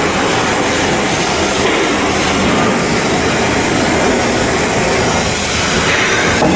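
Loud, steady machinery noise with no clear tone or rhythm.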